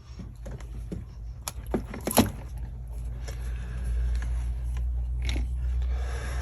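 Scattered metallic clicks and knocks of engine parts being worked loose by hand on a quad bike's cylinder head, the loudest about two seconds in. A low steady rumble underneath swells in the second half.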